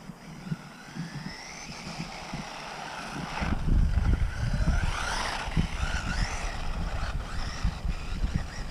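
Electric motor of a WLtoys 1/18 RC short course truck whining as the truck speeds up and slows, its pitch rising and falling several times. A low rumbling noise comes in about three and a half seconds in.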